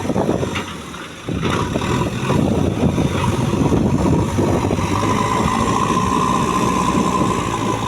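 JCB 3DX backhoe loader's 74 hp diesel engine running, dipping briefly about a second in before picking up again. A steady whine joins from about five seconds in.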